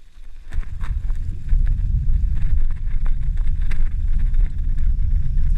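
Wind buffeting the microphone while riding a bicycle along a snowy road: a loud, rough, unsteady rumble that starts about half a second in, with faint scattered ticks and rattles over it.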